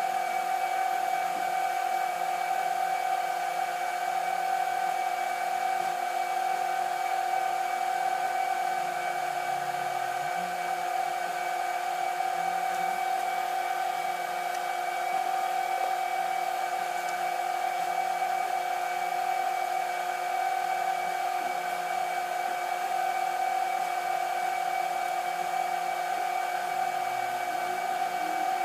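Steady whir of a running electric motor with a constant high hum, unchanging throughout.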